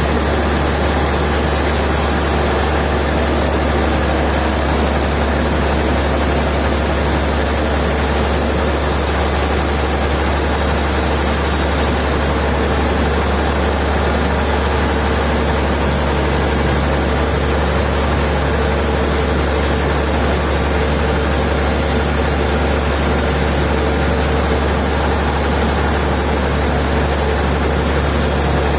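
Heavy sawmill machinery running steadily with a constant low hum, unchanging throughout.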